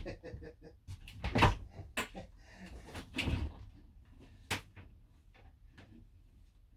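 A series of knocks and clunks with some scraping: hands working loose an interior fitting and its wiring in an old camper van. The loudest clunk comes about a second and a half in, with a sharp click a few seconds later.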